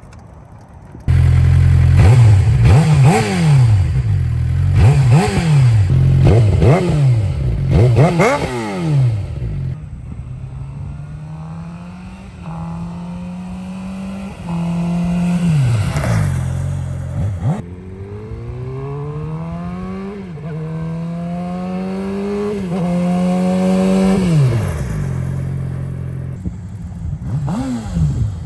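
2019 Suzuki GSX-R600 inline-four engine being revved at a standstill. First comes a run of quick throttle blips, each rising and falling in pitch; about ten seconds in, the sound switches to longer, slower revs that climb and drop back. These are the stock muffler and the M4 GP slip-on exhaust heard back to back.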